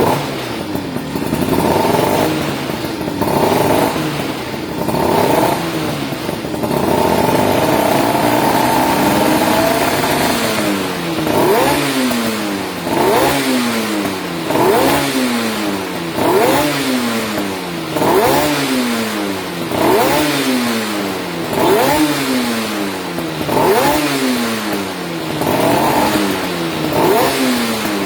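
Yamaha V80 two-stroke motorbike engine revved through its exhaust: the revs climb and are held up for a few seconds, then the throttle is blipped over and over, about once every second and a half, each rev rising sharply and falling back.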